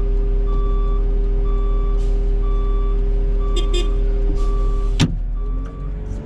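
Backup alarm beeping about once a second over the steady running of the Cat 906 wheel loader's diesel engine, with a single sharp knock about five seconds in.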